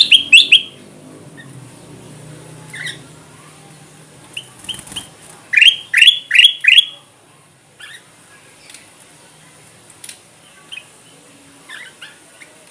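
Kutilang emas bulbul calling in short, bright sweeping notes: a quick cluster at the start, a few scattered notes, then the loudest run of four rapid notes about six seconds in, trailing off into faint chirps. A steady high hiss of insects runs underneath.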